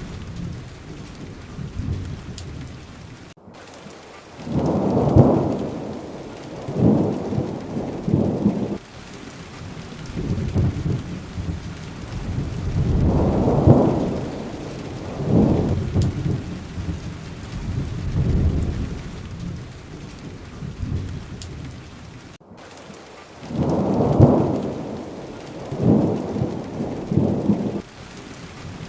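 Steady rain with low rolling rumbles of thunder that swell and fade several times. The sound cuts out for an instant twice.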